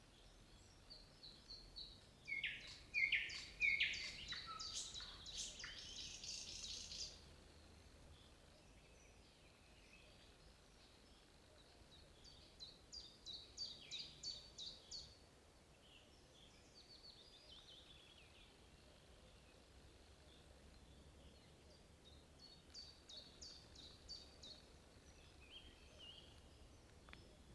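Nightingale singing in separate phrases of rapid repeated high notes: a loud phrase a couple of seconds in, then shorter, fainter trilled phrases around halfway and near the end, over a faint background hiss.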